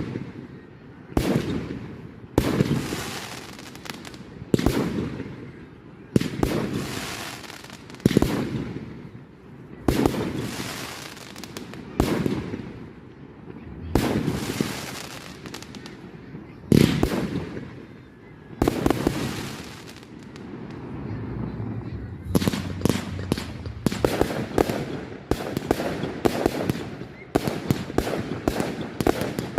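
Firework display: sharp bangs every second or two, each trailing off, then from about two-thirds of the way through a quick run of many smaller reports close together.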